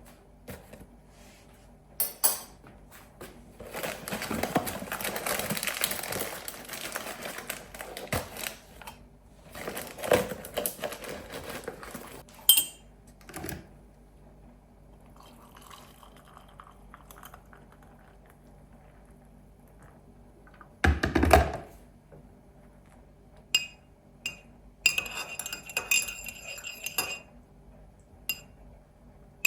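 Dishes and cutlery being handled: scattered clinks and clatter, with one loud heavy knock about two-thirds of the way through and a quick run of ringing clinks near the end.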